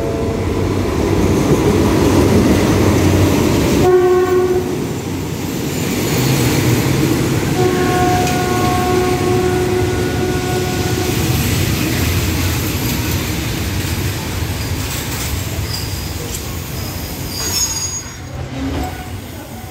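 A Thai Alsthom diesel-electric locomotive (No. 4401) runs close past with a heavy rumble and sounds its horn twice: a short blast about four seconds in, then a longer one lasting about three seconds. Its coaches follow with steady rolling noise, and thin high squeals come near the end as the train slows.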